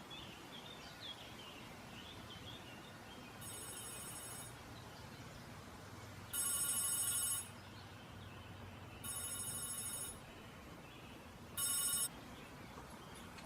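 Electronic ringing tone like a telephone ringing, sounding four times: a faint ring, then three louder rings about a second long each, the last one shorter.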